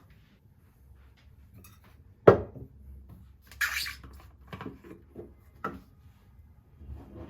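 Objects handled on a hard surface: one sharp knock of something set down, a brief rustle about a second later, then several lighter clunks and taps.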